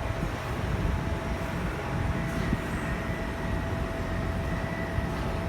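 Docklands Light Railway train at the station, a steady low rumble with a steady whine over it.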